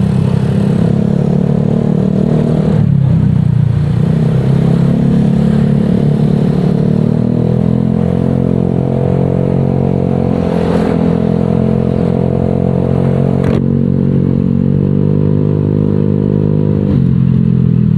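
Honda Vario 125 scooter's single-cylinder engine running through a Nobi Neo 3 Bold aftermarket exhaust while riding, with a deep, bassy exhaust note. The engine pitch rises and falls slightly as the throttle is eased and opened.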